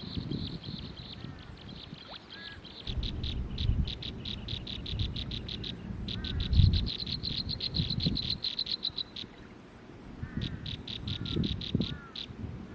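Nestling birds begging in the nest: rapid runs of short, high-pitched calls, several a second, starting about three seconds in, pausing briefly, then resuming. Low bumps and rumbles sound underneath.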